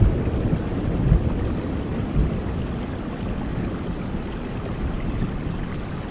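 Steady rain with a low rumble of thunder dying away.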